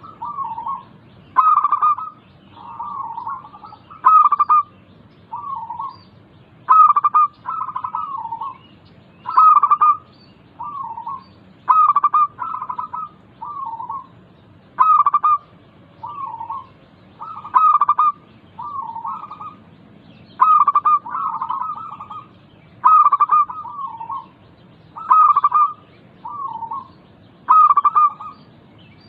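Zebra dove (perkutut) singing its cooing song: short phrases of quick, clipped coos repeated about every two and a half seconds, used as a lure call to prompt a captive perkutut that is reluctant to sing.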